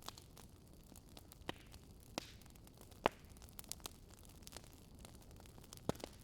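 Wood fire crackling: irregular sharp pops and snaps over a soft steady hiss, the loudest pop about three seconds in.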